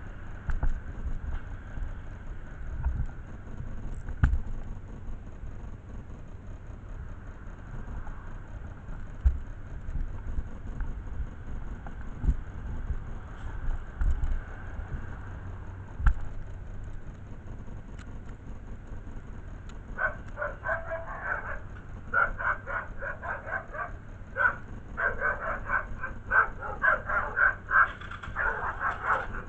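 A low rumble with scattered thumps, then from about two-thirds of the way through a dog barking rapidly and repeatedly.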